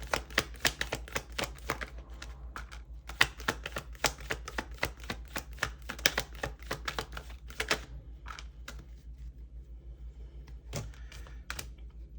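Deck of tarot cards being shuffled by hand: a quick run of crisp card clicks and snaps that thins out after about eight seconds to a few scattered taps.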